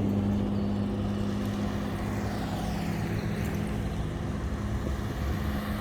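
Classic car engines running as cars drive slowly past, a steady low hum that gradually fades.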